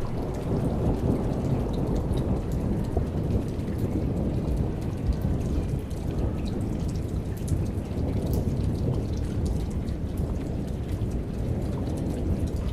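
Thunderstorm: heavy rain falling with fine drop-ticks over a long, low rumble of thunder that sets in suddenly and rolls on throughout.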